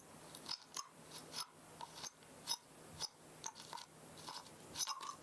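Small Phillips screwdriver turning a tiny screw out of a 2.5-inch hard drive's circuit board: faint, uneven little clicks and scrapes, two or three a second.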